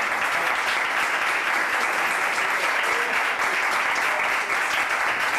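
Audience applauding steadily with dense clapping, welcoming performers who have just been introduced.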